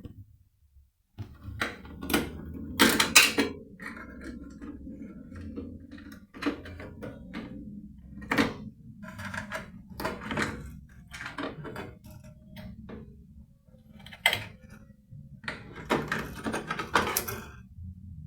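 Irregular clicks, taps and knocks of a screwdriver and metal parts as the screw holding a microwave oven's high-voltage diode and the bracket holding its high-voltage capacitor are taken out, over a faint low hum.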